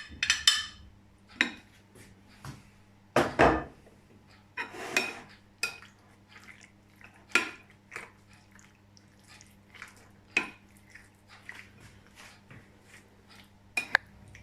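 A utensil clinking and scraping against a bowl while chicken pieces are mixed into a yogurt and spice marinade: scattered light knocks, one or two a second, with a louder knock about three seconds in.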